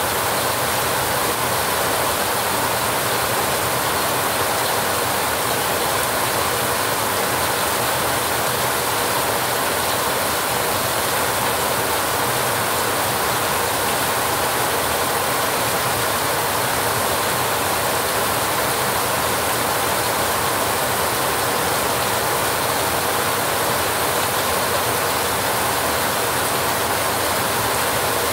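Heavy rain falling steadily on a rusty metal roof, a dense, even patter with no let-up.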